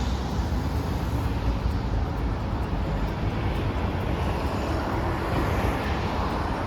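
Steady rumble of street traffic, with no single vehicle standing out.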